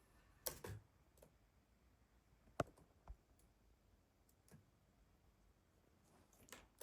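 A handful of faint, separate clicks and light taps over near silence, the sharpest about two and a half seconds in.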